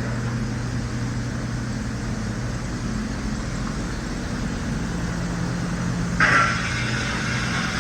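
A 2012 Cadillac Escalade's 6.2-litre V8 engine running steadily at idle. About six seconds in, a brighter, hissier sound joins the engine hum and carries on.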